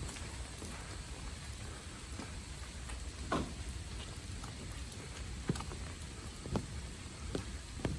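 Steady rain falling, with a few separate louder drops striking close by in the second half.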